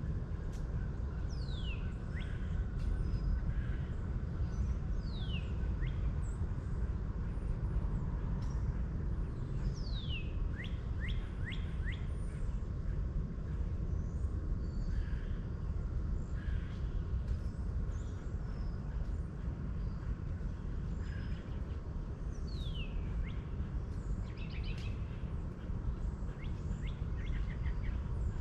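Birds calling over a steady low rumble. Several times a whistled call sweeps down in pitch, often followed by a quick run of short notes.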